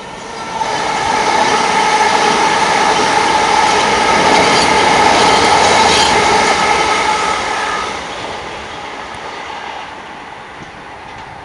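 Southern multiple-unit passenger train passing close by on the track below and running away down the line: loud rumble of wheels on rail with a steady whine, rising about a second in and fading over the last few seconds as it draws away.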